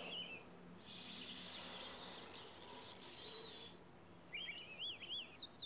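Faint bird chirping: quick warbled notes that rise and fall, bunched together after about four seconds. Before them a soft high hiss lasts about three seconds.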